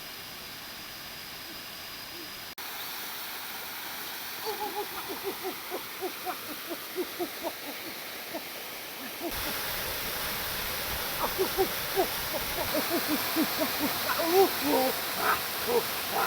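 Many short, falling, high calls from a small animal, repeated several times a second from about four seconds in and getting louder toward the end, over a steady rushing hiss.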